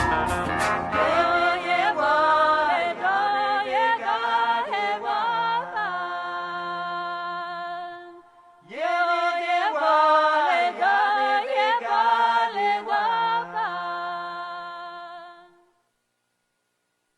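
Unaccompanied chant-like singing in two long phrases, with notes gliding and then held. The second phrase fades out about three-quarters of the way through, and the soundtrack ends.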